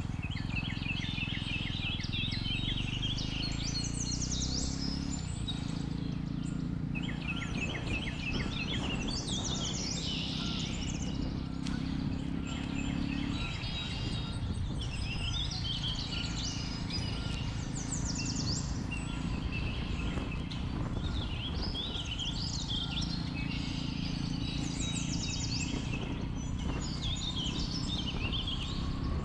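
Jawa 42 motorcycle's single-cylinder engine running steadily with wind rumble, under many birds calling in repeated chirps and trills.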